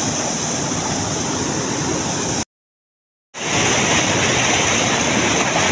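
Steady loud rush of a waterfall's falling water, cut to dead silence for just under a second about two and a half seconds in, then resuming.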